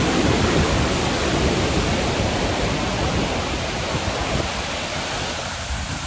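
Iguaçu Falls' waterfalls rushing: a dense, steady roar of falling water that slowly grows quieter toward the end.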